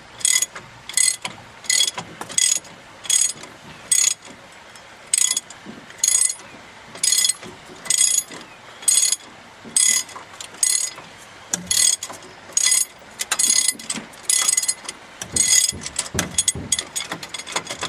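Hand ratchet wrench turning a fastener in short, repeated strokes, each stroke a quick rattle of pawl clicks, about one and a half strokes a second. Near the end the clicks come faster and closer together.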